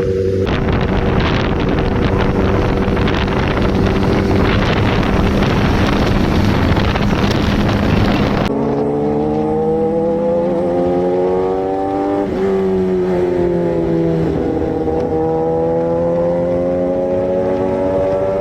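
Honda CBR1000RR Fireblade's inline-four engine running hard at speed, a dense loud roar with wind noise. About eight seconds in it gives way abruptly to a clear engine note that rises and falls in pitch, with a drop and climb again about halfway through, like the revs changing through gears.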